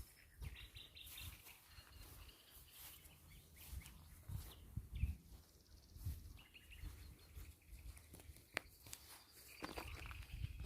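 Small birds chirping faintly in short broken calls, over a low uneven rumble and scattered clicks.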